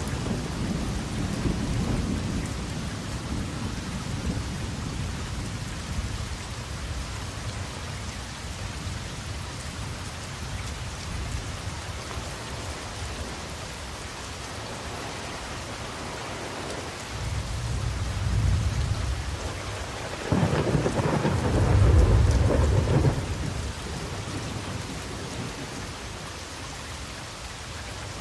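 Steady rain falling, with rolling thunder: a low rumble dying away at the start, then another rumble past the middle, and a few seconds later the loudest peal, rumbling for about three seconds before fading back into the rain.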